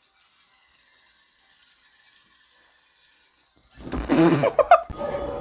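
A faint steady high hiss, then about four seconds in a dog barks loudly and yelps, followed by a steady rattling mechanical noise.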